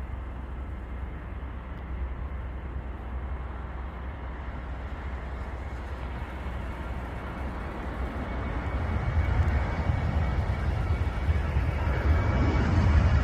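Boeing 737 jet engines at takeoff power, a low rumble with a hiss over it that grows louder about two-thirds of the way through as the airliner comes nearer.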